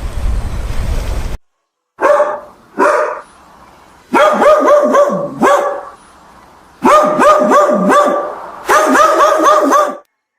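A dog barking with high-pitched barks: two single barks, then three quick runs of several barks a second. A low rumbling noise before it cuts off abruptly.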